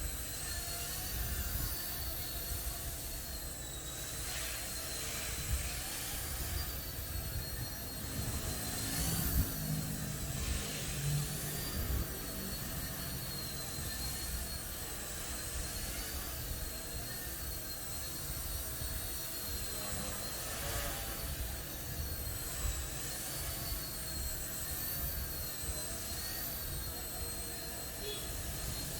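Small electric RC helicopter's motors whining steadily, the high pitch wavering up and down every second or two.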